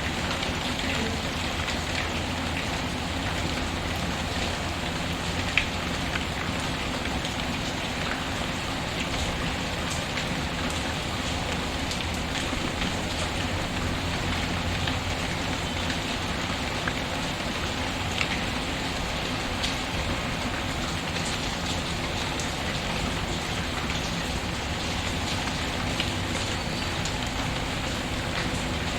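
Steady rain patter mixed with a fireplace crackling, a few sharp pops standing out now and then, one louder pop about five seconds in.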